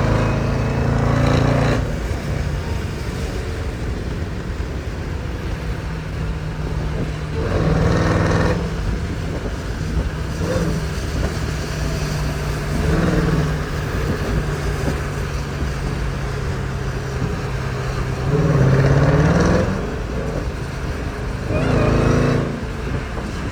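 Jeep Grand Cherokee Trackhawk's supercharged V8 running under way with a steady drone, over road and tyre noise on wet pavement. The engine surges louder in about five short bursts of throttle, the strongest a rising rev near the end.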